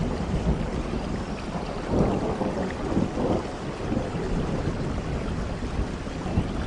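Rain falling steadily with thunder rumbling through it, the rumble swelling about two seconds in.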